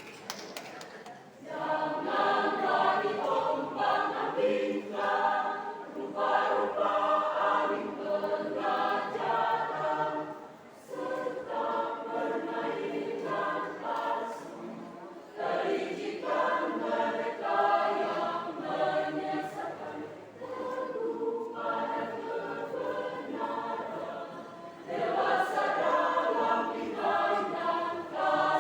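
Church choir singing in several voice parts, a Christmas choral piece in phrases with short breaths between them, starting about a second and a half in.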